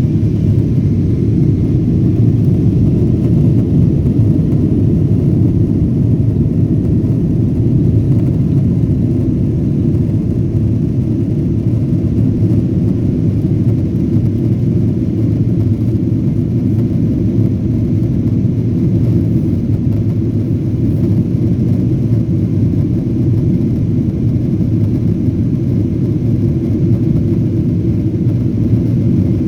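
Boeing 777-200ER cabin noise: a steady low rumble of jet engines and airflow heard from inside the passenger cabin as the airliner climbs after takeoff.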